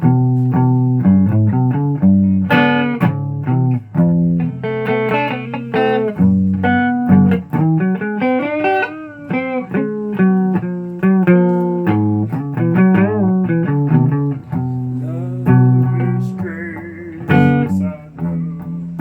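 Guitar playing a run of single plucked notes and chords, a few of the notes bending in pitch about two-thirds of the way through.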